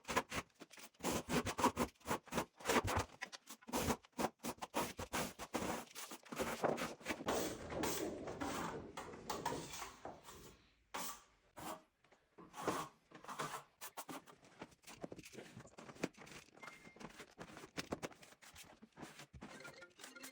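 Irregular run of short scrapes and taps, like hand tools working a wall surface; busiest in the first half, sparser after about ten seconds.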